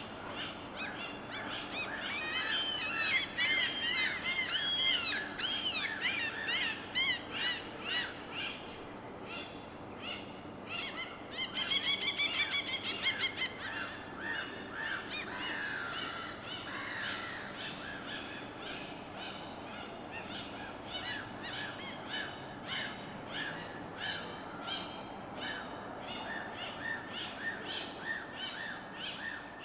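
Several birds calling over a steady wash of water noise: a run of loud, arching calls from about two to seven seconds in, a louder drawn-out call with overtones around eleven to thirteen seconds in, and short repeated chirps throughout.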